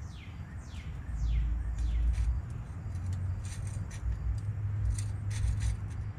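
A bird calling in a quick series of short falling whistles, about two a second, fading out after about two seconds, over a steady low rumble. A handful of sharp clicks follow in the second half.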